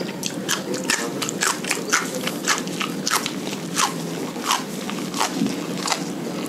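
Close-up mouth sounds of a man biting and chewing raw papaya leaves: wet chewing with a sharp click about twice a second.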